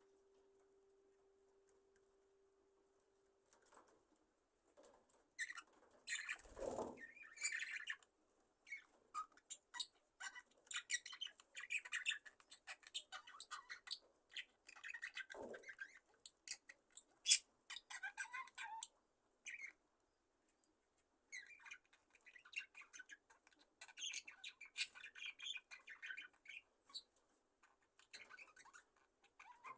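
A flock of budgerigars chirping softly and sporadically, with rustles of wings and feathers. It starts near silent with a faint steady hum for the first few seconds. The loudest rustle comes about six seconds in, and there is a lull in the chirping about two-thirds of the way through.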